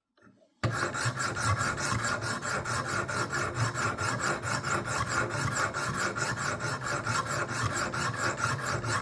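Sharpening stones of a Wicked Edge WE60 guided knife sharpener rubbed in rapid, even strokes along a steel kitchen-knife blade, a steady rasping scrape. It starts abruptly just under a second in and runs on. This is the stage of grinding the edge to raise a burr.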